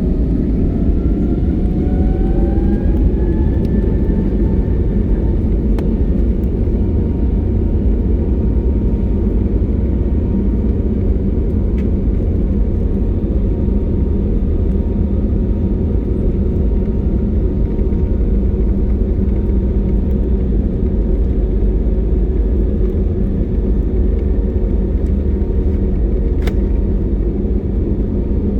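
Airbus A321neo jet engines running, heard from inside the cabin as a steady low rumble. A whine rises in pitch over the first few seconds as the engines spool up, then holds steady.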